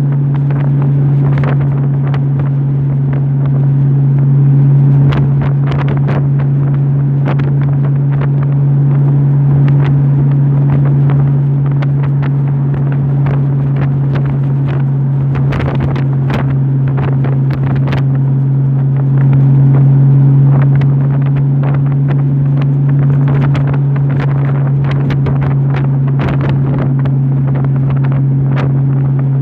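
Honda motorcycle engine running at a steady cruise of about 60 mph, a constant drone that swells slightly twice, with wind buffeting the microphone.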